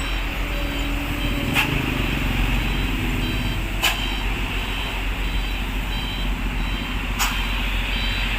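Stopped coal trucks' diesel engines running at idle, a steady low rumble. Three short hisses a few seconds apart and faint repeating high beeps sound over it.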